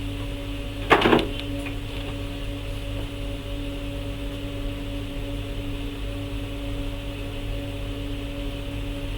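A steady electrical hum with fixed low tones, broken about a second in by one short, loud clatter.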